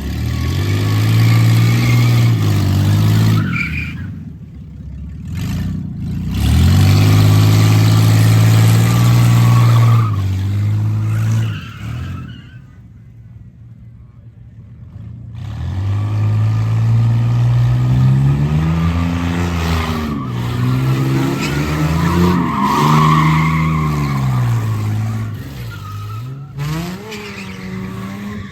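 Car engine revving up and down at high rpm with tyre squeal, the sound of cars doing burnouts or donuts. It comes in several loud stretches that break off suddenly.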